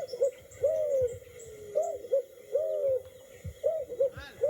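A bird's repeated short hooting calls, about two a second, each a quick rise and fall in pitch, over low rumbling noise.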